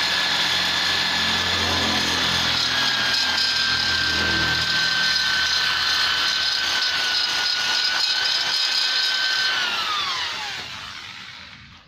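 Rotary grinder fitted with a carbide burr running at a steady high whine while grinding metal, with a rougher grinding sound over the first few seconds. About ten seconds in it is switched off and spins down, its whine falling in pitch until it stops.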